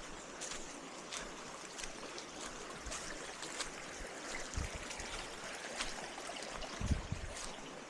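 Steady rush of a forest stream below a waterfall, with scattered brief ticks and a couple of low bumps near the end.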